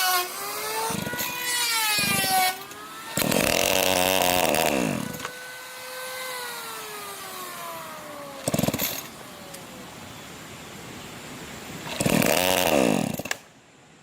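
A power saw's motor revving up and cutting wood in three bursts. Between the cuts its pitch falls slowly as the motor winds down.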